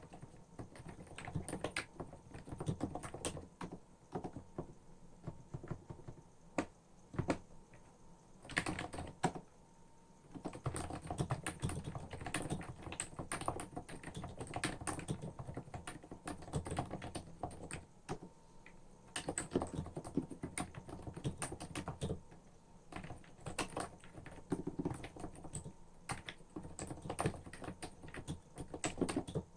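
Typing on a Hansung CHF7 OfficeMaster capacitive keyboard with 50 g switches and lubricated stabilizers: a continuous irregular run of keystrokes, with short pauses about ten and nineteen seconds in.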